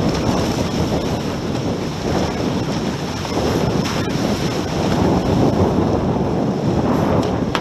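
Wind buffeting the microphone over the steady rush of water along the hulls of a Tornado catamaran sailing upwind.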